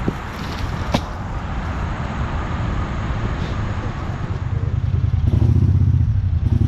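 Utility vehicle engine running, growing louder and more evenly pulsing from about four and a half seconds in, with two sharp knocks in the first second.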